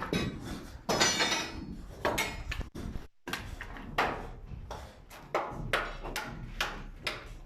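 Irregular knocks and clatter of building work, a dozen or so separate sharp bangs with a brief break about three seconds in.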